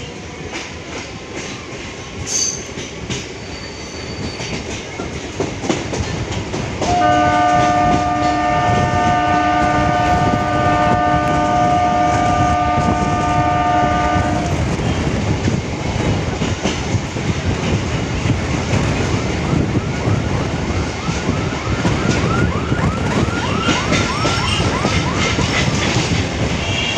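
Suburban electric local train running, its wheels rumbling and clattering on the track. A multi-tone train horn sounds steadily for about seven seconds, starting about a quarter of the way in. In the last several seconds a fast, evenly repeating sweeping sound joins the running noise.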